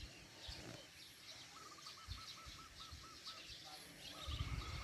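Birds calling outdoors: a rapid string of short, identical notes at about six a second, heard twice, over fainter high chirps. A few low dull thumps come about two seconds in and near the end.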